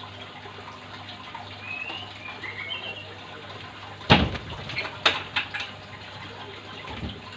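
A few faint short bird chirps over a steady low hum, then a loud knock about four seconds in, followed a second later by a quick run of three or four sharper knocks.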